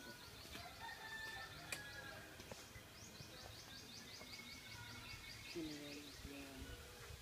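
Quiet outdoor ambience with a bird giving two rapid runs of short, high chirps, about eight a second, which stop a little after halfway.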